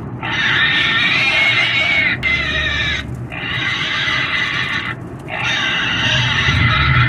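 Pig squealing and screaming: three long, high-pitched cries of about two seconds each, each broken off by a short pause for breath.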